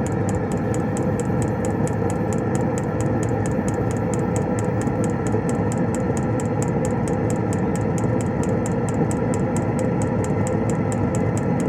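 Diesel heater running with a steady hum, while its fuel dosing pump ticks rapidly and evenly, about four to five clicks a second, as it pumps diesel through the newly fitted fuel line.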